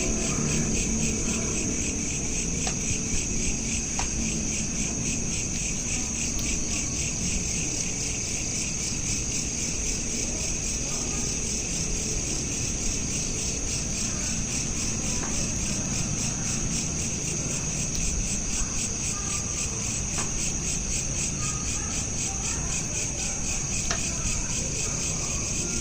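Crickets chirping in a steady, continuous high trill that pulses rapidly, over a low background rumble.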